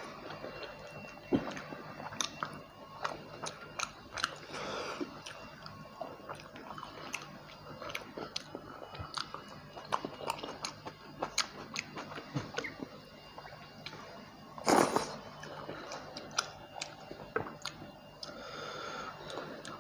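Close-up chewing and biting of fried rohu fish and rice eaten by hand: wet mouth sounds with many small irregular clicks and some crunching of the fried crust. One short, louder noisy burst comes about three-quarters of the way through.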